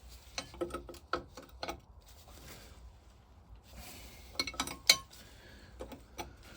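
Scattered metallic clinks and taps of a spanner and loosened fasteners being worked off an old engine's vaporiser, with a small cluster of sharper clinks about two-thirds of the way through.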